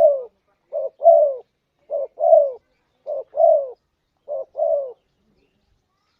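Spotted dove (tekukur) cooing as a lure call: a two-part coo, a short note followed by a longer falling note, repeated about once a second, five times, then stopping about five seconds in.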